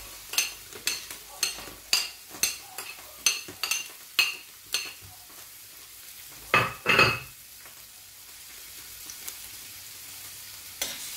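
Chopped onion and garlic sizzling in hot oil in a steel wok, with a metal spoon tapping about twice a second for the first five seconds as the onion is knocked off a plate into the pan. Two louder clatters come about six and a half seconds in, then only the steady sizzle.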